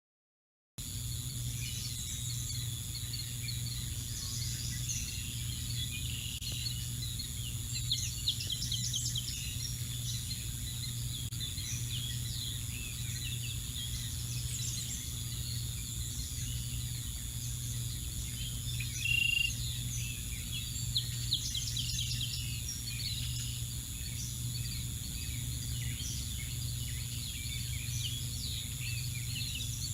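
Steady low hum with scattered short, high bird chirps and calls, one louder note a little after the middle.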